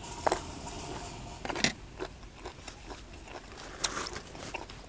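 Close-miked chewing of hed pho (Astraeus earthstar puffball) mushrooms from a curry, with sharp crunches and mouth clicks as the firm mushroom skins are bitten through, the loudest about a second and a half in and near the four-second mark.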